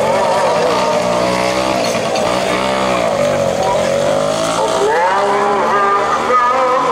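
A muezzin's call to prayer sung over a mosque loudspeaker: one man's voice holds long, ornamented notes that slide and waver in pitch, with a rise and quick warble about five seconds in.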